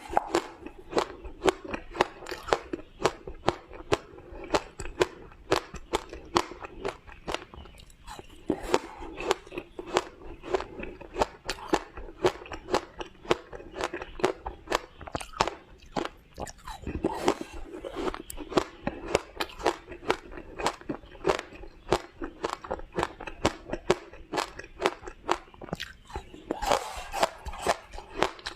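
Close-up crunching and chewing of shaved ice, with sharp crisp crunches coming a few times a second without pause.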